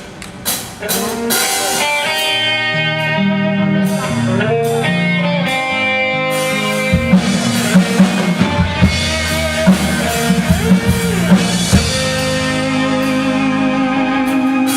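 Live rock band playing a song's instrumental intro: guitar melody over bass, with the drum kit coming in about halfway.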